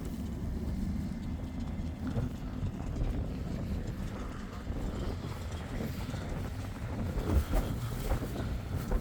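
Footsteps walking through snow, over a low rumble of wind on the microphone.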